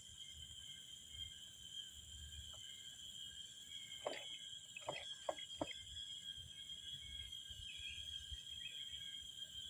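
Steady chorus of insects such as crickets, a thin high-pitched drone holding several fixed tones. About four to six seconds in come four short, sharp clicks or knocks.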